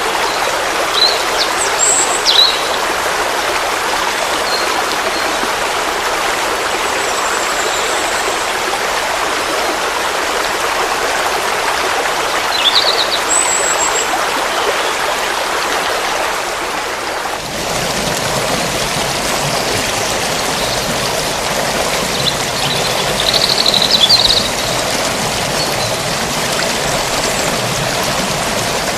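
Forest stream flowing steadily, with a few short high bird chirps scattered through it. A little over halfway through, the water sound changes abruptly and turns fuller and deeper.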